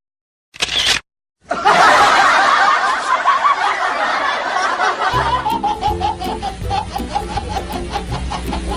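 Edited-in sound effects: a short click-like burst, then a burst of canned laughter, with background music with a steady beat and bass coming in about five seconds in.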